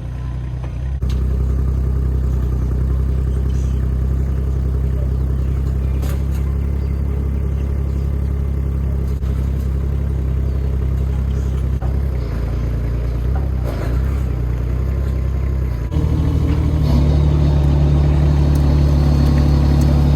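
Engine of a small earth-moving machine running steadily under load, getting louder and higher about sixteen seconds in as it is worked harder, with a few faint knocks.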